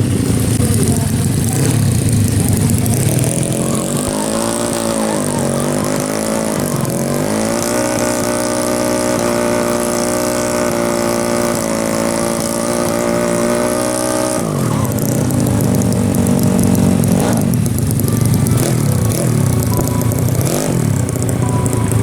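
A 200cc drag-racing automatic scooter engine being revved. It blips up and down a few times, holds at steady high revs for about six seconds, then drops back to low revs.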